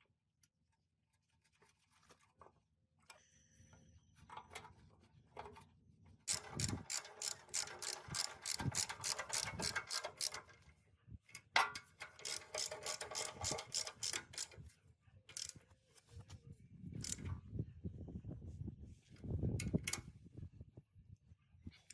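Metal parts being worked by hand: two runs of rapid clicking, about five clicks a second, with a single sharp click between them, then low dull thumps near the end.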